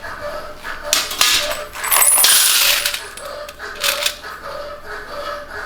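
Small metal chest fittings clinking and rattling together as they are handled, in a few separate bursts, the longest and loudest about two seconds in.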